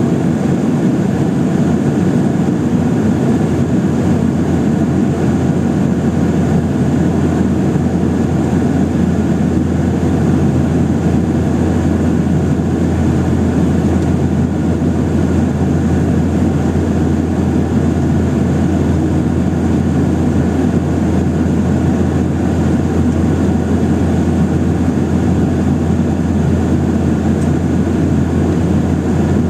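Boeing 737-800 passenger cabin noise: the jet engines running at a steady setting under a constant rush of air, with a low, even drone that does not rise or fall.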